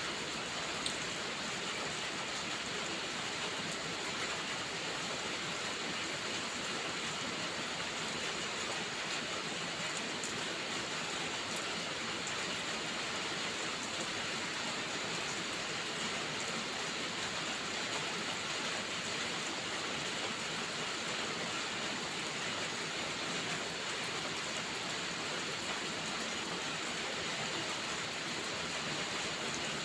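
Steady heavy rain, an even continuous hiss, with a few faint sharp crackles from a wood fire in a fireplace.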